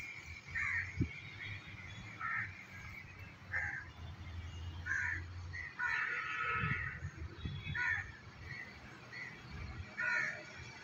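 A bird calling over and over with short harsh calls, roughly one a second, with a longer run of calls about six seconds in.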